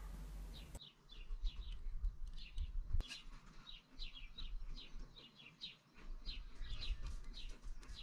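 Small birds chirping, with short high chirps repeated several times a second.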